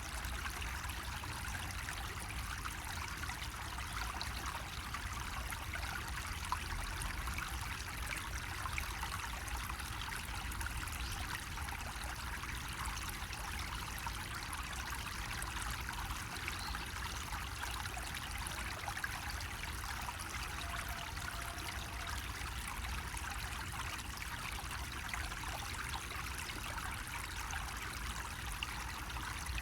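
Water running steadily from a bamboo faucet, an unbroken trickling splash.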